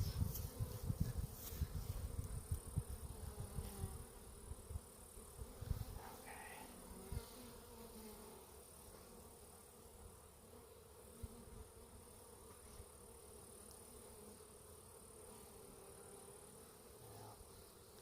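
Honeybees from a disturbed Carniolan colony buzzing around the microphone in a steady, slightly wavering hum. Low rumbling noise on the microphone fills the first four seconds or so, then fades.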